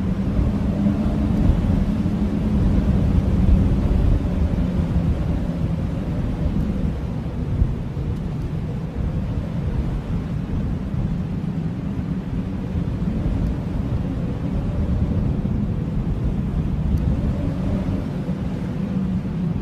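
Blizzard wind blowing hard and steadily, a deep rumble with a faint wavering howl over it, a little stronger in the first few seconds.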